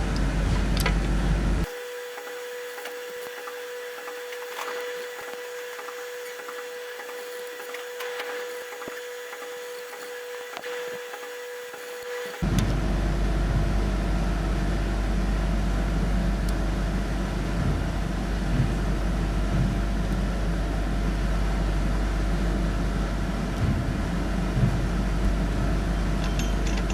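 Valves being lapped into their new seats in an Iveco Cursor 13 cylinder head: repeated gritty scraping of valve on seat. The sound changes abruptly twice, and the quieter middle stretch carries a steady hum.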